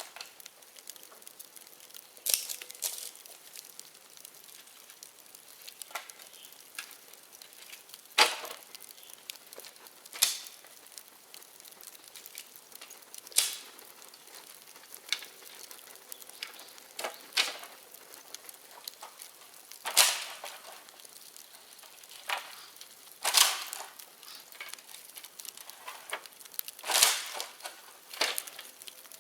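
Bonfire of dead bamboo crackling and hissing, with about ten loud, sharp pops at irregular intervals as bamboo culms burst in the heat.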